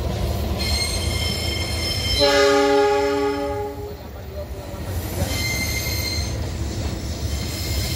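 Passenger train rolling past with a steady low rumble and high-pitched wheel squeal. A train horn sounds about two seconds in and holds for about a second and a half. The squeal comes back around five seconds in.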